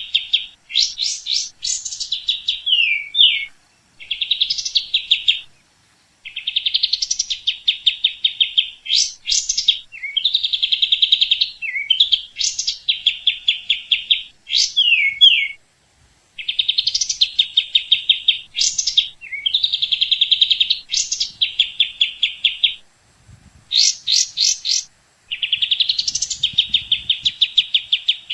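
A songbird singing repeated song phrases, about eight of them, separated by short pauses. Each phrase is a fast, even trill followed by a few sharp sweeping notes that rise and fall.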